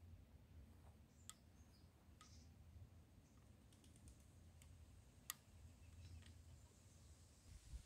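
Near silence: a faint low rumble of outdoor background with a few faint scattered clicks, the sharpest about five seconds in.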